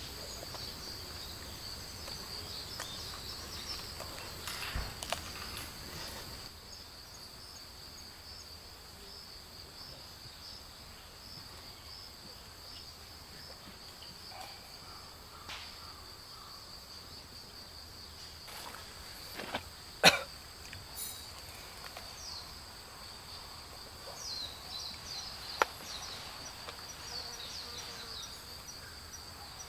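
Insects chirping steadily in a high, wavering band, with a few sharp clicks or snaps scattered through; the loudest snap comes about 20 seconds in.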